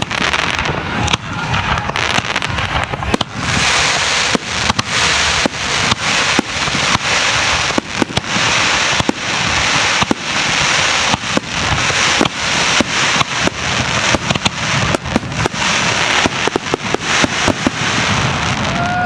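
A fireworks display barrage: many aerial shells bursting in rapid succession with sharp bangs. A dense crackle builds from about three seconds in.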